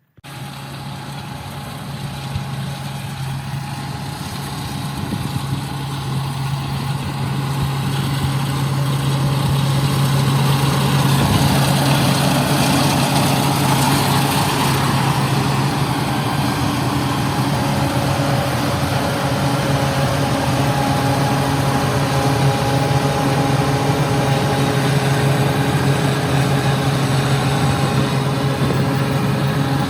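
An engine running steadily with a strong low hum. It cuts in abruptly at the start, grows louder over about the first ten seconds, then holds steady.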